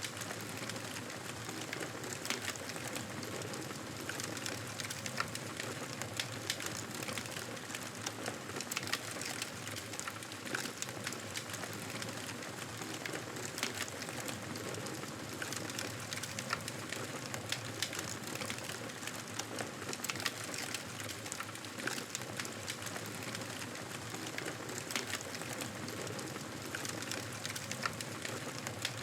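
Wood fire crackling in a fireplace: a steady soft hiss with many small sharp pops and snaps scattered throughout.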